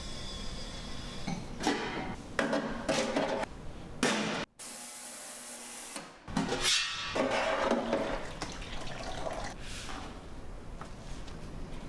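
Water running and splashing in several short, separate bursts, with a sudden cut and a brief high hiss near the middle.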